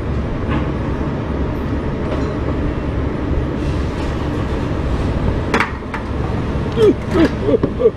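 Steady low rumble of wind buffeting the microphone over a running truck engine, with a sharp click about five and a half seconds in and a few short squeaks and clicks near the end.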